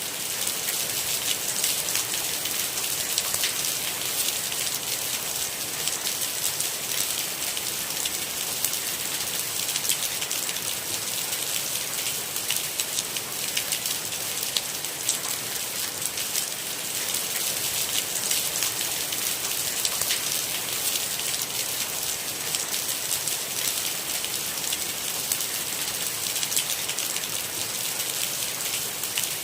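Steady rain with dense, closely spaced drop hits over an even hiss that sits mostly in the high range, with no thunder.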